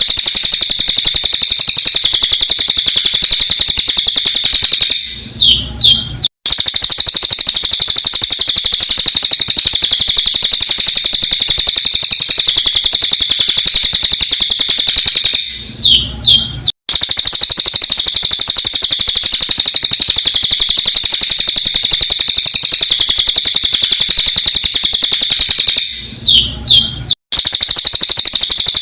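Cililin bird song, sped up: a dense, very fast and unbroken run of high, sharp chirps. It breaks off briefly with a cut about every ten and a half seconds, where the recording loops back and starts again.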